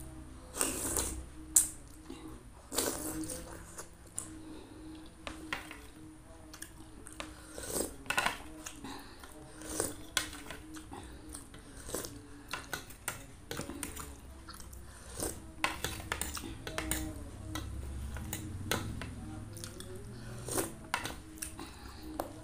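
Close-up chewing of a bakso telur (egg-filled meatball) in spicy broth, with scattered sharp clicks of a metal spoon and fork against the plate.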